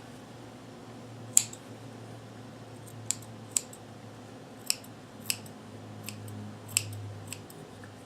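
Scissors snipping loose threads off a freshly sewn hem, about eight separate sharp snips over several seconds. A faint steady hum sits under them.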